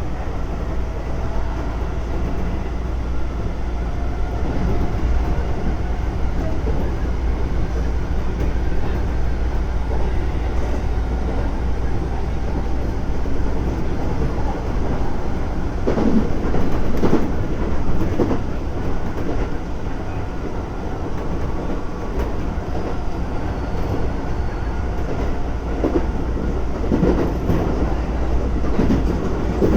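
Keisei 3400 series electric train running at speed, a steady rumble with a faint motor whine from its chopper control. Its wheels click over rail joints in groups, once around the middle and again near the end.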